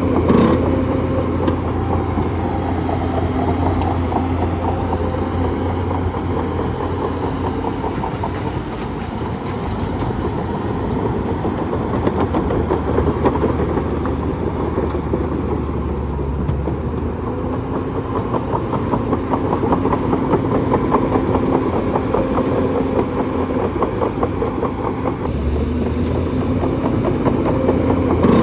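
Bulldozer's diesel engine running steadily, with a fast mechanical rattle over it.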